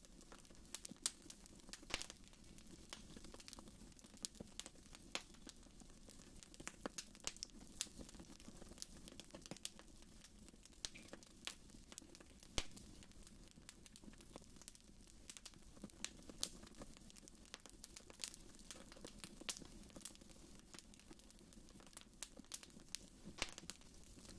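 Wood fire in a fireplace crackling, with irregular sharp pops and snaps over a faint steady low background.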